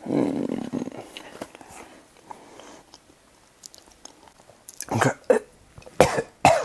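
A man chewing a canned boiled quail egg close to a clip-on microphone, loudest in the first second. Near the end come four short, loud mouth and throat sounds as he reacts to the egg.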